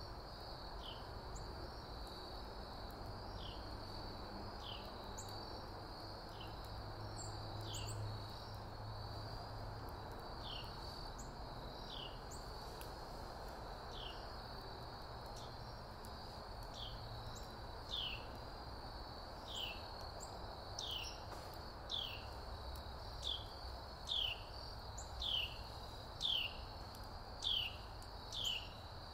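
A bird repeats a short, falling chirp about once a second, growing louder over the second half. Under it runs a steady, high insect trill, a low outdoor hum, and faint crackles from a wood fire.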